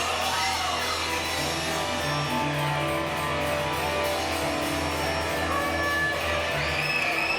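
A band playing, with guitar to the fore over a steady bass line.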